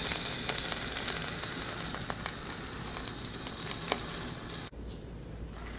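Hot juices and fat sizzling and crackling around a freshly roasted whole chicken, a steady hiss with scattered pops. It cuts off suddenly near the end, leaving a low hum.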